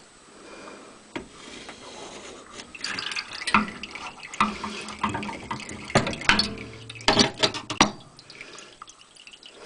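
Water splashing and dripping from a water heater's drain, mixed with irregular knocks and clatter from handling around the drain valve, busiest in the middle and dying down near the end.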